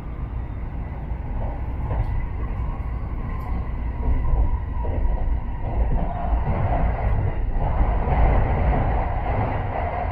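Shinkansen bullet train running at speed, heard from inside the passenger car: a steady deep rumble and rushing noise with a faint whine, growing somewhat louder about four seconds in.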